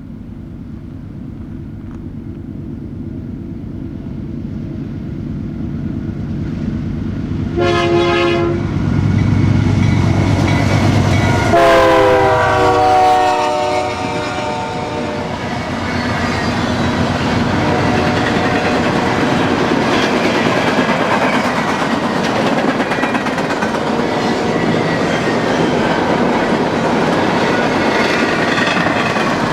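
Diesel locomotive of a BNSF freight train approaching with its engine rumble building, sounding its horn in a short blast and then a longer one that drops in pitch as it goes by. The freight cars then roll past with steady wheel noise and clickety-clack over the rail joints.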